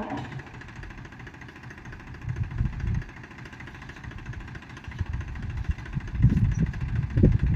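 A diesel engine of farm machinery running, with uneven low rumbling that swells twice, briefly about two seconds in and again near the end.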